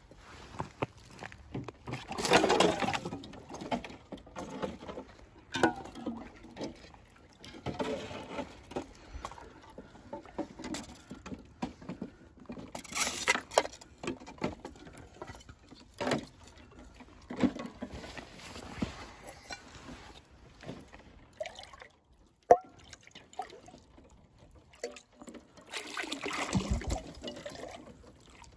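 Water sloshing and being poured into a container in irregular bursts, with handling noises between them and one sharp knock about 22 seconds in.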